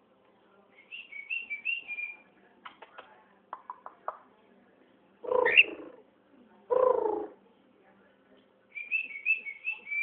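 Pet cockatiel whistling short warbling phrases, once near the start and again near the end, with a few soft clicks between. Two louder, lower calls come in the middle, one rising and one falling in pitch.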